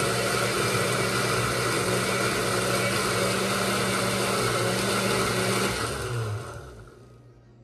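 Electric blender motor running steadily while blending. It is switched off about six seconds in and winds down.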